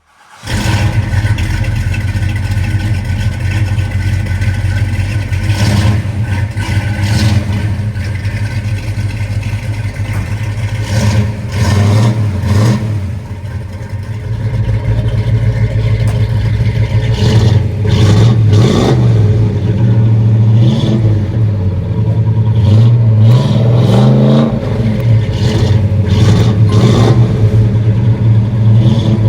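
1963 Ford Galaxie 500 engine running through a custom 3-inch dual exhaust with an H-pipe and Flowmaster Super 44 mufflers, giving a deep exhaust note. It idles steadily and is revved up and back down several times in the middle and latter part.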